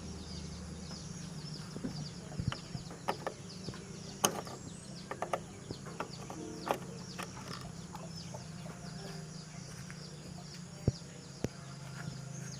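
Many short, high chirps from birds repeating over a steady low hum, with scattered sharp clicks and knocks, most of them in the first half.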